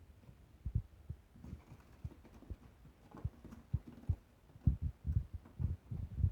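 Irregular dull low thumps and knocks, sparse at first and coming several a second in the last couple of seconds.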